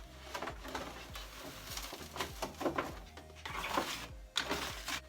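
Irregular scraping and knocking of a budgie cage's bottom tray being scraped clean, with faint bird chirping.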